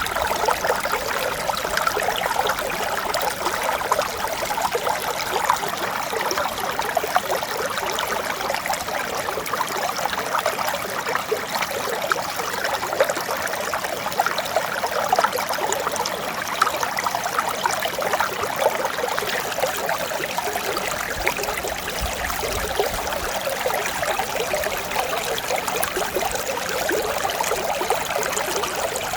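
Mountain stream flowing and splashing over rocks, a steady babble of water with fine splashing throughout.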